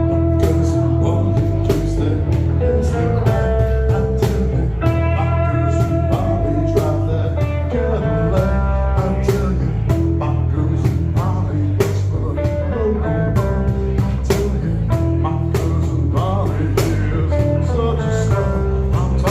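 Band playing a slow blues: a lead guitar holds and bends notes over bass and drums with a steady beat.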